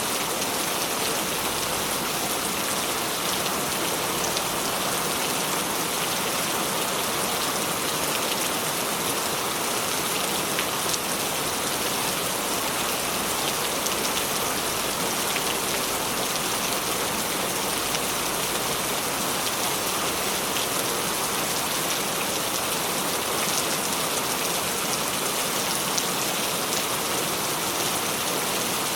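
Steady rain falling: an even hiss with scattered individual drop ticks, unchanging throughout.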